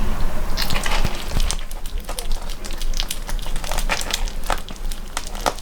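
Kittens eating close to the microphone: a run of irregular wet clicks and crackles from chewing and lapping, with a low thump or two.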